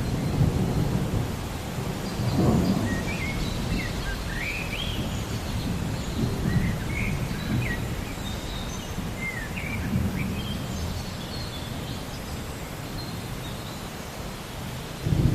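Rain with a low, rolling thunder rumble that swells and fades, strongest about two and a half seconds in, while small songbirds chirp over it in short rising and falling notes.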